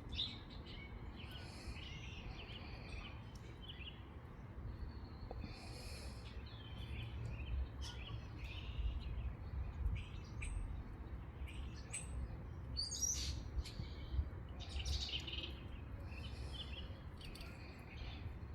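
Several wild songbirds chirping and singing in scattered short phrases, with a steady low rumble of wind on the microphone underneath.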